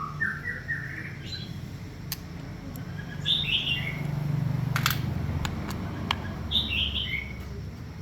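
A small bird chirps in quick runs of falling notes, three times: at the start, about three seconds in, and near six and a half seconds. A few sharp clicks and a low hum sit underneath.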